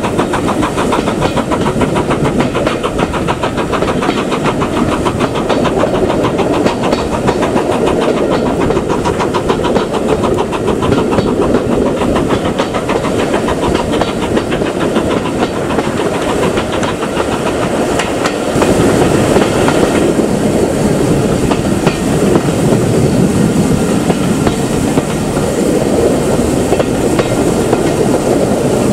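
A steam-hauled heritage train running along the line: a steady rumble with the wheels clicking over the rail joints, growing a little louder about two-thirds of the way through.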